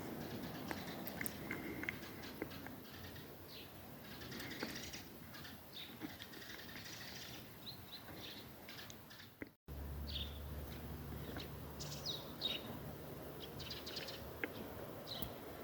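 Small birds chirping and tweeting, many short scattered calls over a faint background. The sound drops out briefly about ten seconds in, and afterwards a low steady hum sits underneath the chirps.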